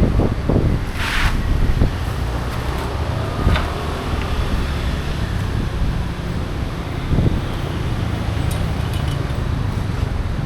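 Traditional market background: a steady low rumble with faint distant voices, and a short hiss about a second in.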